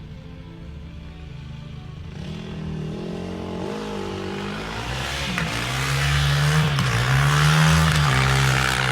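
A motor vehicle's engine, growing steadily louder as it approaches, its pitch wavering up and down over a rushing hiss.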